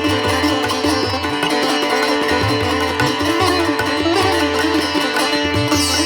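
Instrumental background music: a plucked-string melody with sliding notes over a steady drone.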